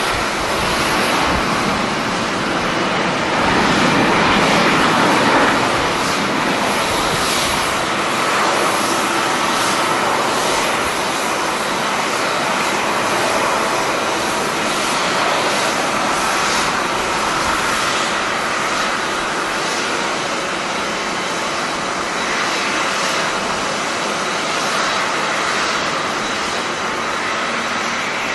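Jet airliner engines running, a steady loud rush of noise that swells briefly about four seconds in.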